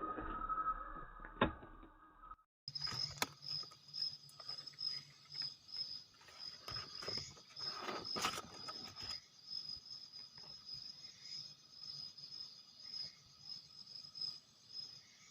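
Night insects trilling: a steady, finely pulsing high-pitched chirr that runs on after a brief cut near the start. A few knocks and rustles come in the first half.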